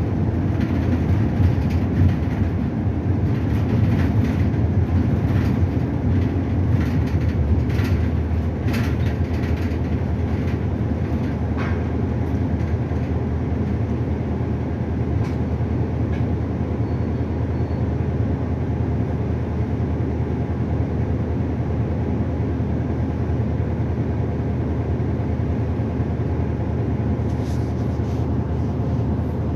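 City bus running on the road, heard from inside: a steady low engine hum with road noise, and scattered short clicks and rattles during the first half.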